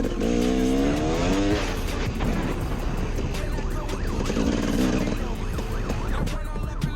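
Vehicle engines and road noise, with a pitched engine-like tone rising over the first second and a half and another pitched stretch about four and a half seconds in.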